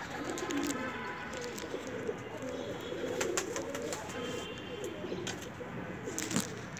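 Birds calling over and over in low repeated notes, with a few sharp clicks, the loudest near the end.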